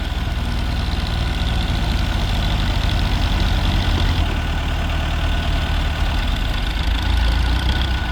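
Heavy diesel engines running steadily with a low rumble, the machines of a mud-loading site; the sound eases slightly about four seconds in.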